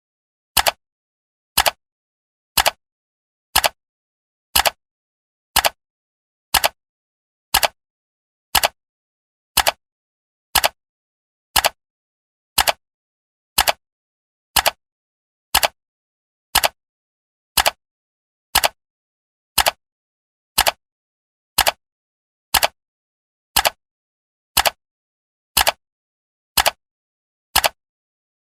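Clock ticking, one sharp tick a second, with silence between the ticks.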